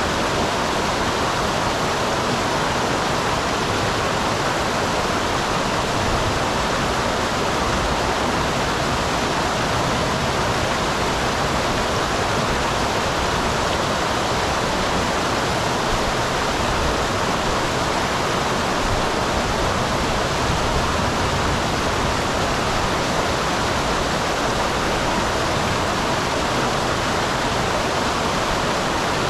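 Small waterfall on a mountain stream: water falling and rushing in a steady, unbroken roar, fairly loud and even throughout.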